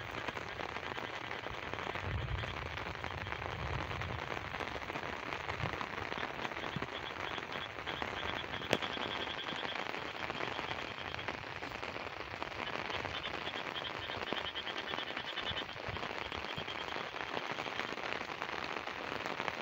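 Steady monsoon rain falling over flooded fields, with a low rumble of distant thunder near the start. A faint pulsed high chirping comes and goes in the middle.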